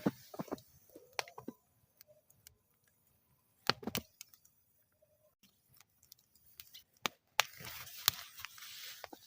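Campfire burning in a metal fire bowl, crackling with scattered sharp pops. A short flurry of denser crackling comes a little before halfway, and a longer one near the end.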